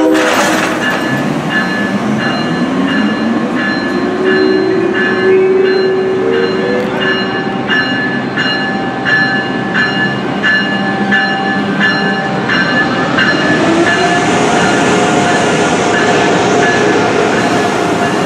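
Acela Express electric trainset on the move, its traction motors giving a rising whine that climbs again near the end as it picks up speed. A train bell rings steadily, about one and a half strokes a second, for most of the first two-thirds.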